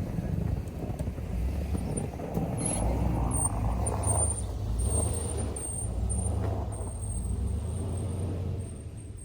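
A vehicle engine running with a steady low rumble and a thin high whine above it, getting quieter near the end.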